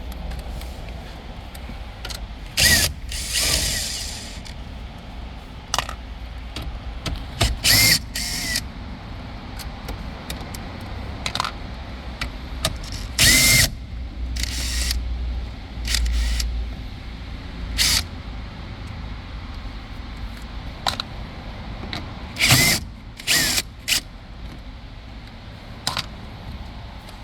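A tool backing out the 10 mm screws that hold the dashboard radio bezel: about a dozen short whirring bursts, some nearly a second long, with scattered clicks and knocks in between.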